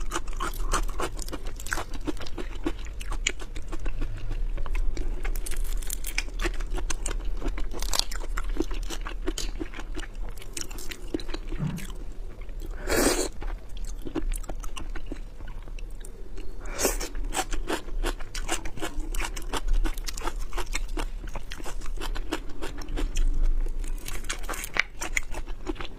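Close-up chewing and crunching while eating river crab with rice: a dense run of crisp crunches and mouth sounds, with a few louder crunches midway.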